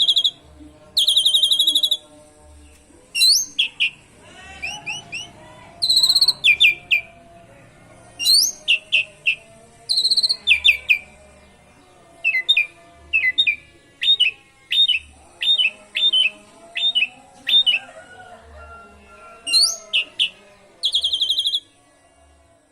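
Asian pied starling (jalak suren) singing a loud, varied song with canary-style phrases. It opens and closes with high, buzzy rattling trills about a second long, and in the middle gives a run of quick, sharply falling whistled notes, about two a second.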